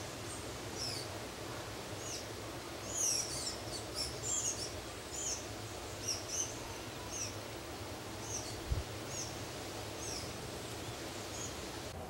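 A small bird chirping: a run of short, high, sharp notes repeating about once or twice a second, busiest a few seconds in, over a steady low outdoor rumble. A single dull low thump about nine seconds in.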